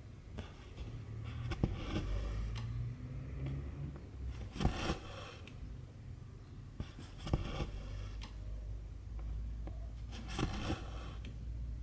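Silk embroidery thread being drawn through 11-count cross-stitch fabric by hand: a series of short scraping pulls a second or a few seconds apart, with a few light clicks of the needle.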